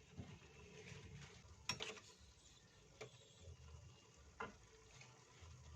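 Quiet stirring in a frying pan of noodles and long beans, with three sharp clicks of the spatula against the pan, the loudest a little under two seconds in.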